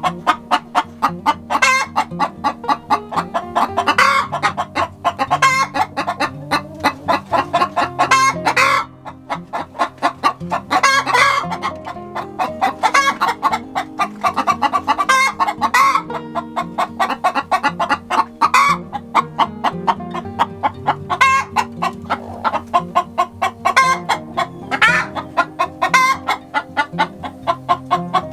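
Background music with a bass line, with chickens clucking throughout.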